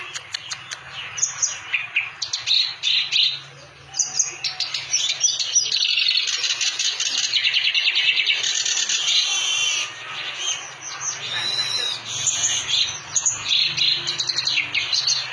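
Kerak basi (reed warbler) singing vigorously: a rapid, continuous chattering song of quick varied notes and trills, with only brief pauses.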